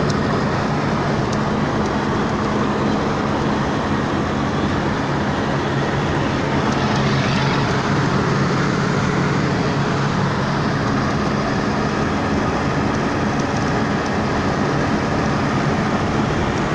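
Steady running noise of a moving vehicle: an even rumble with a low, constant hum, unchanging throughout.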